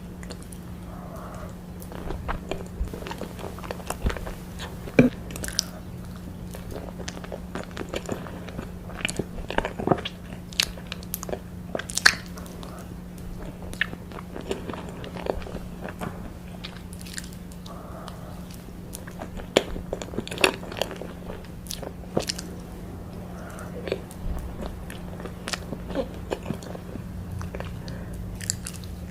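Close-miked eating of cake slices: bites and chewing, made of many short, sharp, irregular clicks and mouth sounds, over a steady low hum.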